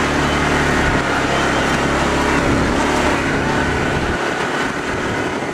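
Arctic Cat UTV engine running steadily under a wash of wind and trail noise. The engine note drops away about four seconds in.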